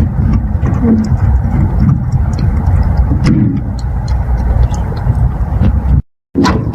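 Strong wind buffeting the microphone: a loud, steady low rumble with a few faint clicks over it, cutting off abruptly about six seconds in.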